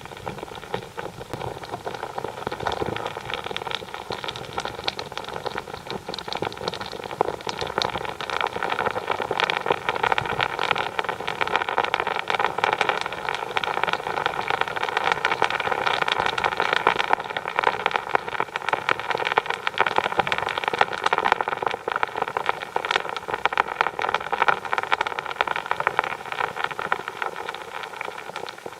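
Drilling rig boring into the ground, running steadily with a dense, rapid rattle over its engine's droning tones, louder through the middle.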